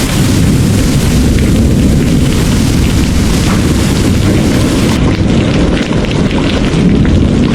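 Heavy rain pouring as a dense, steady hiss over a deep, continuous rumble of distant rolling thunder.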